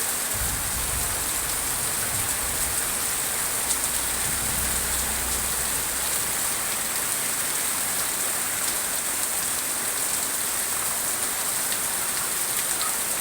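Heavy tropical rain pouring down, a dense, steady hiss of rain on surfaces, with a faint low rumble underneath during the first half.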